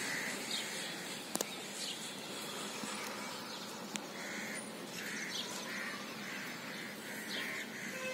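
Birds calling: a series of short repeated calls, with thin higher chirps from other birds among them.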